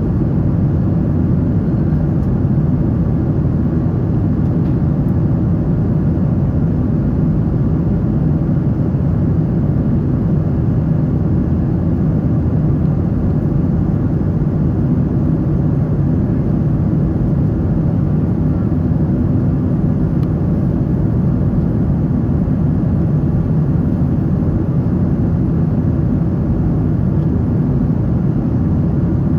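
Steady low cabin rumble inside a Boeing 777-300 airliner in flight, unchanging throughout.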